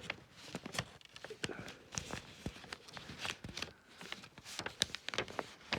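A sheet of paper being handled, folded and creased by hand, with irregular crinkles, rustles and light taps.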